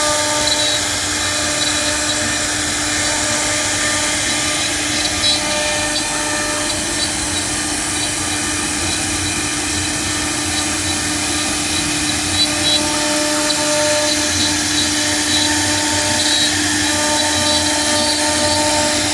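CNC router spindle running steadily as the bit cuts a 3D carving, a constant machine whine over cutting noise, with a couple of brief louder ticks.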